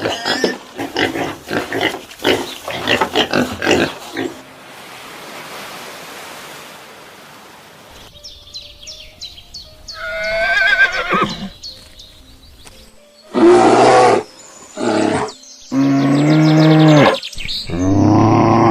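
A sequence of different animal calls, one clip after another. Quick choppy calls open it, then a stretch of hiss, then gliding calls, and from about two-thirds of the way in, long, loud, deep calls.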